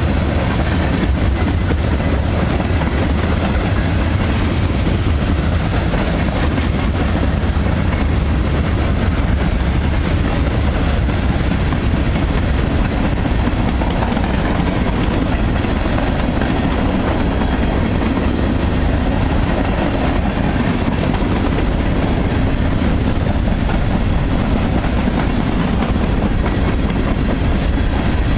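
Union Pacific freight train cars, loaded centerbeam lumber cars and boxcars, rolling past at speed: a steady, loud rumble of steel wheels on the rails that stays even throughout.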